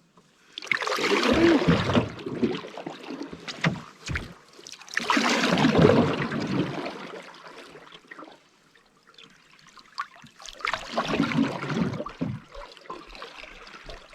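Canoe paddle strokes in lake water: three long swishing pulls, about five seconds apart, with quieter glides between them.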